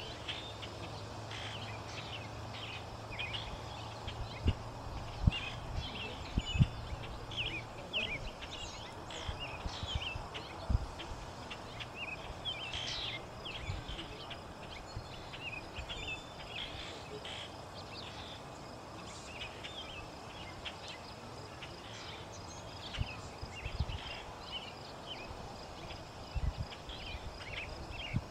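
Small birds chirping: many short, high calls scattered irregularly throughout. There are a few low thumps in the first half and a low hum that stops about halfway through.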